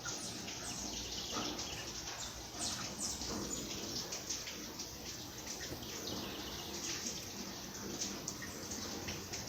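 Rain falling steadily, with many small drips and splashes.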